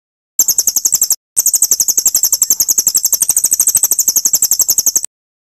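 Recorded songbird trill: a very fast, high-pitched run of evenly repeated notes, about ten a second, in three bouts separated by sudden clean gaps, cutting off abruptly about five seconds in. It is edited birdsong used as a masteran to teach song to a caged murai batu (white-rumped shama).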